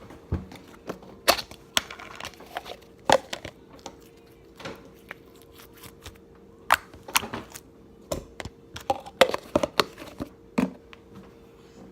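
Slime being handled and squeezed, giving irregular sharp clicks and pops with uneven gaps, over a faint steady hum.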